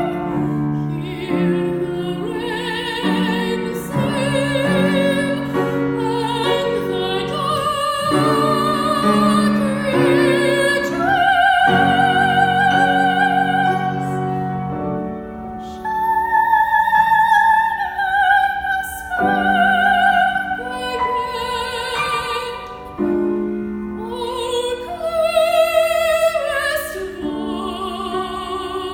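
A teenage girl's classical soprano voice singing an art song with vibrato, sustaining long high notes, accompanied by piano.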